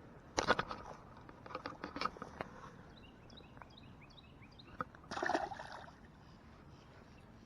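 Water splashing as a caught largemouth bass is let go: a splash under a second in, drips after it, and a second, longer splash about five seconds in. Between the splashes, a small bird chirps a quick run of short falling notes.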